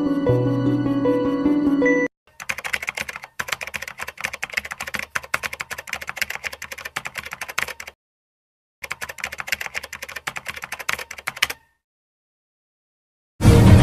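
Soft music for about two seconds, then a fast run of computer keyboard typing clicks in two stretches with a short break between, used as a typing sound effect. It stops dead, and music comes back in near the end.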